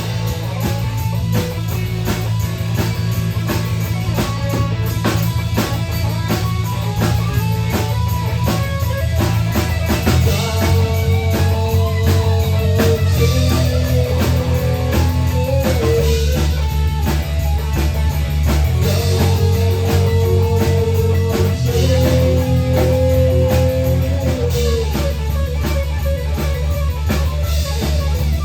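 Rock song with electric guitar, bass and drum kit playing at a steady beat, the guitar holding long sustained notes in the middle stretch.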